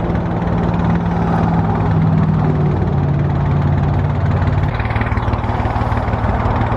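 A motor vehicle engine running steadily with a low hum that steps down in pitch about two to three seconds in and changes again near the five-second mark.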